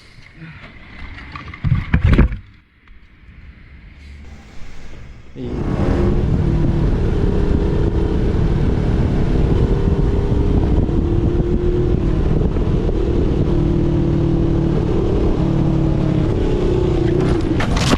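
Motorcycle engine running hard at a steady pitch, with road and wind noise. It comes in suddenly about five seconds in, after a quieter stretch that holds one short loud burst, and stops abruptly near the end.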